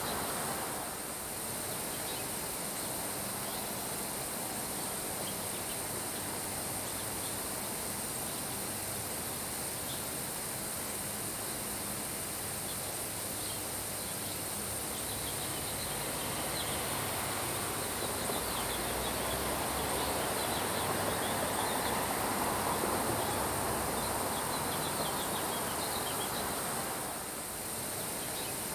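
Steady summer rain falling on grass, an even hiss, with a gust of wind swelling for several seconds past the middle before easing off.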